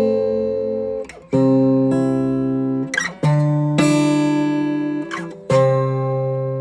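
Acoustic guitar playing slow strummed chords, a new chord about every two seconds, each left to ring out and fade.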